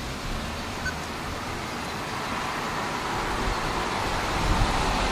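Road traffic noise: a low car rumble under a steady hiss, slowly growing louder.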